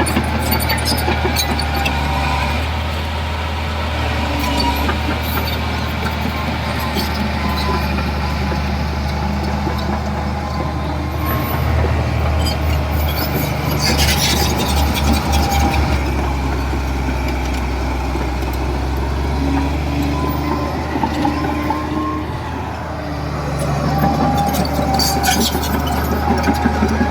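Heavy diesel earthmoving machinery running steadily, with scattered metallic clanks and squeaks over a low engine hum; the engine note eases off briefly about 22 seconds in, then picks up again.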